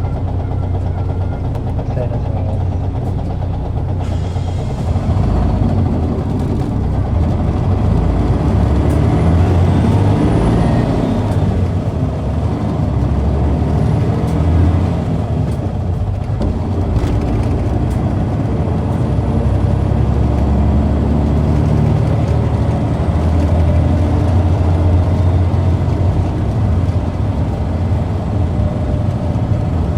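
Toei PKG-KV234L2 city bus heard from inside the cabin, its diesel engine pulling hard about four seconds in with a rising whine. The load eases briefly partway through, then the bus runs on steadily. The uploader describes the engine as sounding slightly abnormal.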